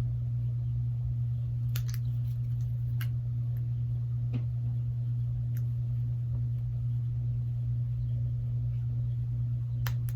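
A steady low hum, unchanging throughout, with a few faint light clicks of small phone parts and tools being handled and tape being worked off.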